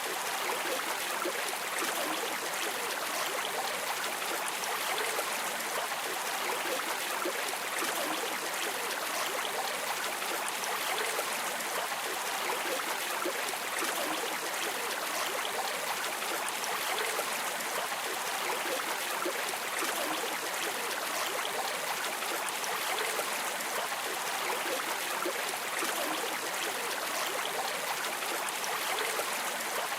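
River water flowing and streaming, an even, unbroken rushing hiss with little deep rumble.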